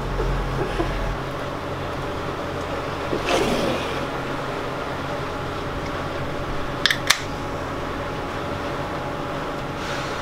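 A sailboat's inboard engine running steadily while motoring, a low drone. Two sharp clicks close together about seven seconds in.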